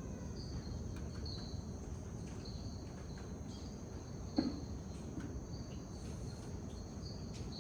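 Tropical rainforest insects, crickets or katydids, trilling steadily at a high pitch over a low, even background rumble. A few faint short calls are mixed in, and a brief sharp sound stands out a little past the middle.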